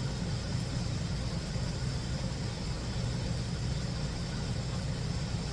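A steady low hum, like a motor or engine running, with no clear change throughout.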